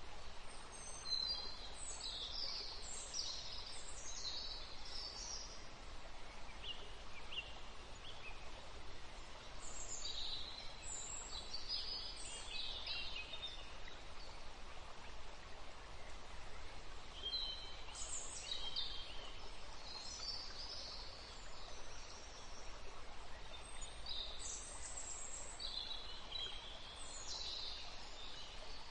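Birds chirping and twittering high-pitched, in short spells that come back every several seconds, over a steady background hiss.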